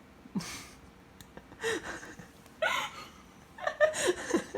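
Breathless, gasping laughter in four bursts about a second apart, the last the longest and loudest.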